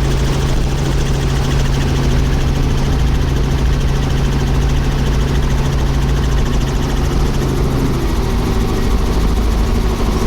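Tour helicopter's engine and rotor running steadily with a fast, even beat. The low hum changes in pitch about eight seconds in.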